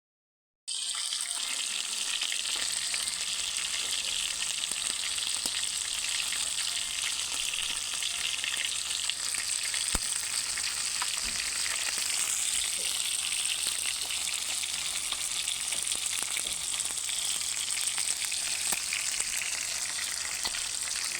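Chicken sizzling as it cooks: a steady, dense sizzle that starts suddenly about a second in and cuts off abruptly at the end, with a few faint ticks and pops.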